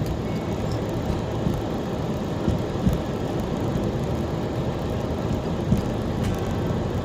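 Road noise inside a car driving on a snowy road: a steady low rumble of tyres and engine, with a few short knocks from bumps in the road.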